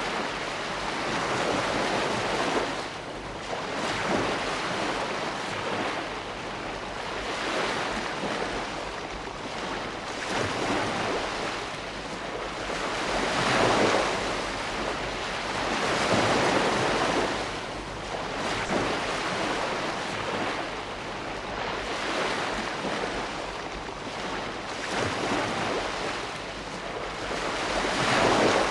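Ocean waves breaking and washing on a shore, a steady surf hiss that swells and falls back every few seconds, with louder breakers about halfway through and near the end.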